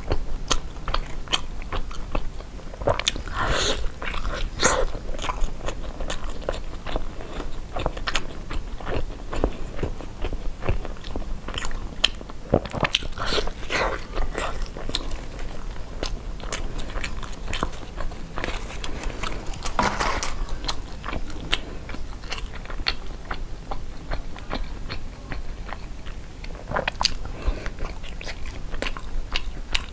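Close-up biting and chewing of a zongzi, a sticky glutinous-rice dumpling with cured pork, with many small wet mouth clicks.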